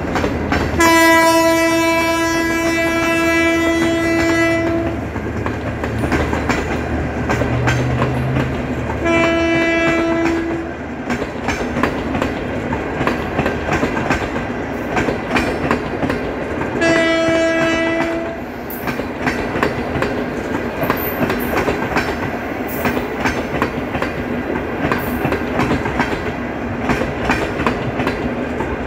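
Passenger train passing close by behind a diesel locomotive: the horn sounds three times, one long blast of about four seconds near the start and two short blasts about nine and seventeen seconds in, over a low diesel engine rumble that fades after about ten seconds. The coaches then roll past with a steady clickety-clack of wheels over the rail joints.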